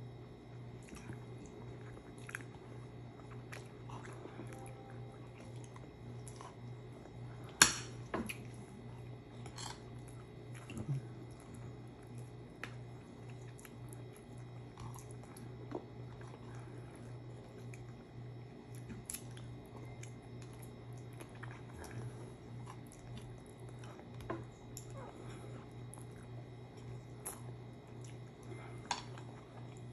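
Close-up chewing and mouth sounds of people eating a meal of rice and fish by hand, with scattered small clicks and taps, the loudest a sharp click about eight seconds in. A steady low hum runs underneath.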